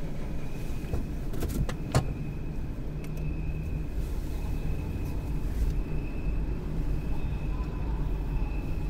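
Car engine running, heard from inside the cabin as a steady low rumble, with a few sharp clicks about a second and a half to two seconds in. Near the end the car begins to pull away.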